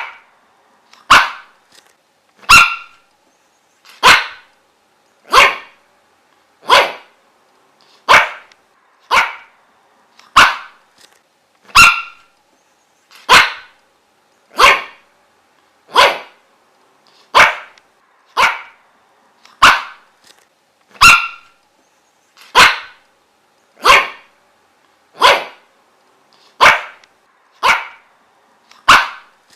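A dog barking in single short barks at an even pace, about one every second and a half, each about as loud as the last.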